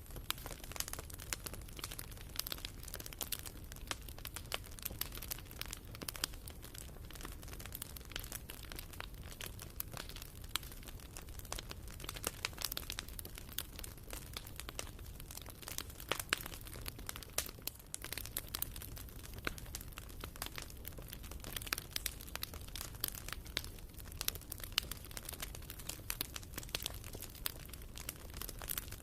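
Wood fire burning in a fireplace, with the firewood crackling and popping in constant irregular sharp clicks over a low steady rumble.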